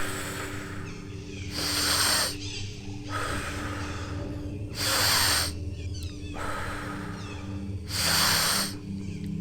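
Paced deep breathing for the Wim Hof method: a softer breath followed by a louder, forceful breath, repeating about every three seconds, three cycles in all, over a low steady drone.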